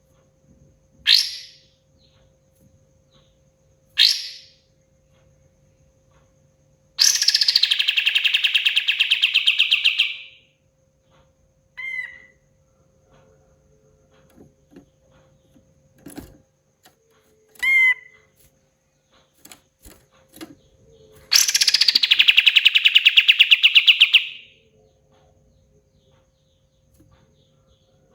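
Kapas tembak bulbul singing: two sharp single calls, then a long rapid trill of about three seconds, a few short chirps, and a second long trill near the end. A faint steady hum lies underneath.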